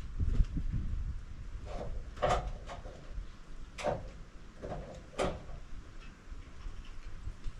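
Scattered sharp knocks and sliding clunks, four or five in all, as a heavy oak log is shifted into place on a portable sawmill's bed.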